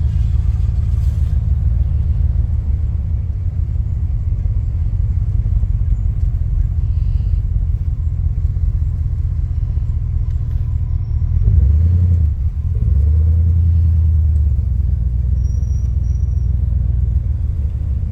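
Corvette's engine and exhaust, a steady low rumble heard from the passenger seat while driving. About two-thirds of the way through, it swells, dips briefly, then holds louder for a couple of seconds.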